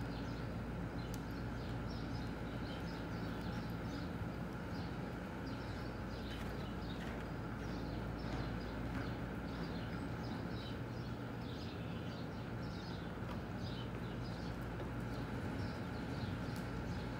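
Small birds chirping over and over, short high calls scattered throughout, over a steady low hum.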